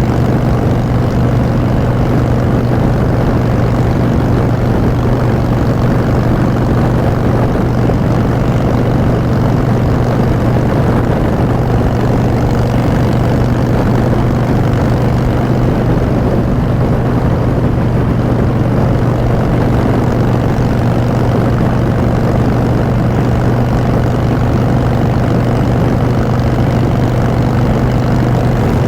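Harley-Davidson Street Bob's air-cooled V-twin running through Vance & Hines Short Shots exhaust pipes at a steady cruising speed, a loud, even drone with no revving or gear changes.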